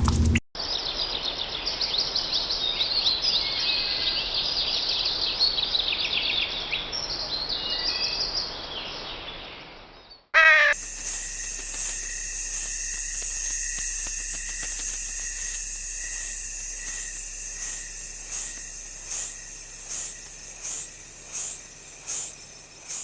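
Forest birds chirping and calling densely. About ten seconds in, after a cut, this gives way to a steady high insect drone with a call repeating about once or twice a second near the end.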